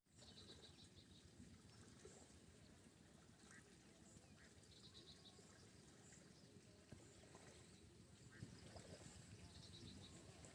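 Near silence: faint rural outdoor ambience with a few short, distant bird chirps, three quick trills of high notes recurring about every five seconds.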